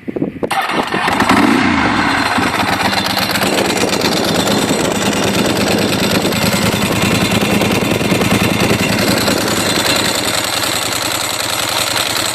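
Ducati 748 V-twin motorcycle engine with its exhaust catching about half a second in, rising briefly in pitch, then running steadily at idle.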